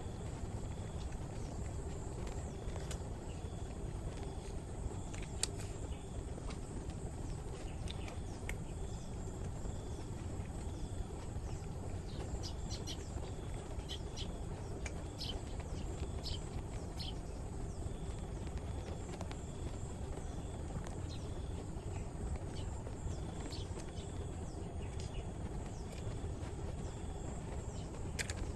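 Steady outdoor background noise with a faint high steady tone and scattered short faint clicks and chirps, thickest about halfway through.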